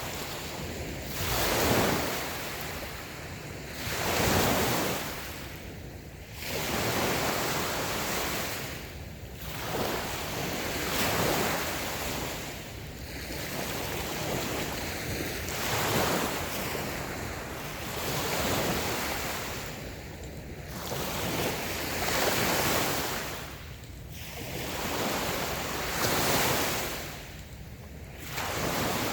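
Light waves breaking and washing up on a sandy beach, one after another, swelling and ebbing every two to four seconds.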